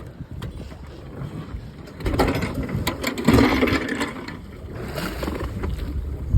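Wind buffeting the microphone over sea noise around the yacht, swelling into a louder rush about two seconds in and easing off again, with scattered knocks and a sharp knock at the end.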